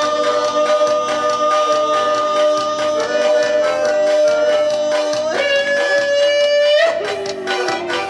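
Live forró band playing with singing: a long held note for about five seconds, then a second, higher-sounding held note, over a steady percussion beat. Near the end the held notes stop and the melody moves lower.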